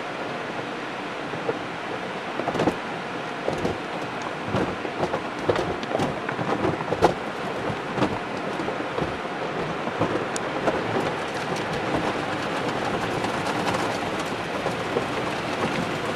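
Automatic car wash heard from inside the car: water spray drumming on the body and windows as a steady rush. Many irregular knocks and thumps fall through the first ten seconds or so, then the rush goes on more evenly.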